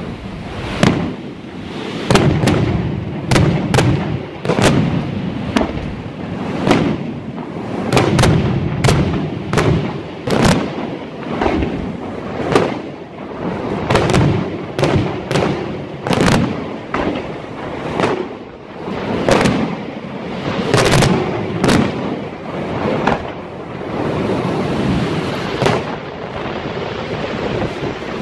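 Aerial firework shells bursting in quick succession, one to three sharp bangs a second over a continuous rumble of further bursts.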